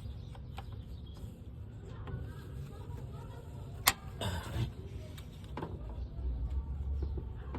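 Hand tool clamped on a seized exhaust manifold nut, with handling and scraping noise and one sharp click about four seconds in, followed by a short scrape.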